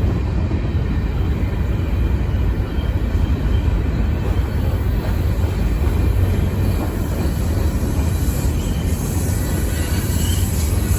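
Freight train rolling past: a steady, continuous rumble of railcar wheels on the rails.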